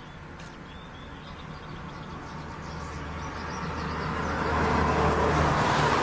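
A road vehicle approaching, its engine and tyre noise growing steadily louder over several seconds. Faint bird chirps in the first couple of seconds.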